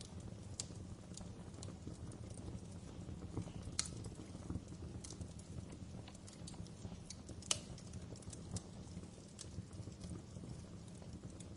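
Wood fire in a fireplace crackling: irregular sharp pops and snaps over a steady low rumble, with the loudest pops about four and seven and a half seconds in.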